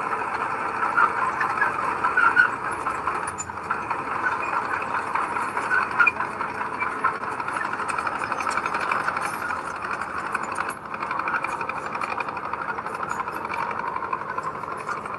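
Diesel engine of heavy earthmoving machinery running steadily, with a few brief louder surges about two and six seconds in.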